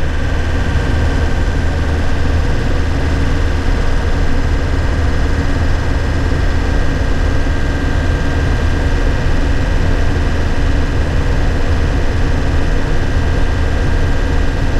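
A 2001 Nissan Cabstar light truck's diesel engine running steadily under way, heard from inside the cab: a constant low drone with a steady higher whine above it.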